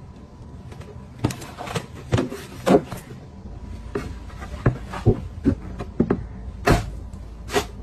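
A string of about a dozen irregular sharp knocks and clicks, spaced unevenly, over a low steady background.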